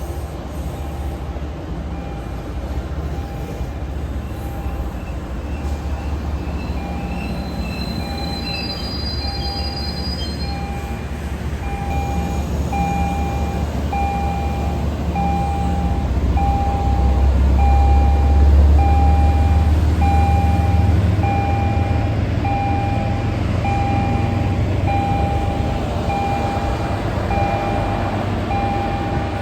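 Diesel commuter train with an MBTA HSP46 locomotive running through, its low engine rumble building to a peak about two-thirds of the way in. A warning bell dings steadily about once a second over it.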